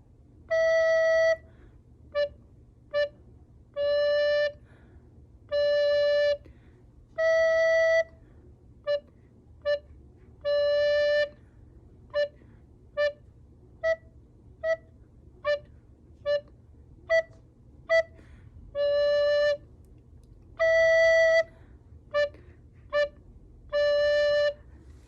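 A soprano recorder plays a simple beginner's tune on two neighbouring notes. Long held notes alternate with runs of short tongued notes, mostly on the lower note, with the higher note now and then.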